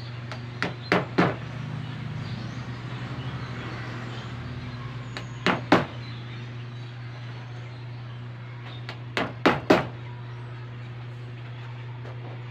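Sharp clicks or knocks in three quick groups of two or three, from work on a motorcycle seat being re-upholstered, over a steady low hum.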